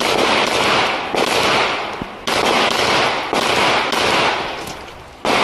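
Pistol shots fired in a timed string, about one a second. Each shot is a sharp crack followed by a long fading echo.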